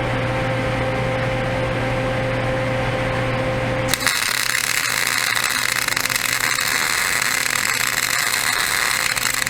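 MIG welder's arc striking about four seconds in and sizzling steadily as a weld bead is laid on a steel plow moldboard; before it, a steady electrical hum.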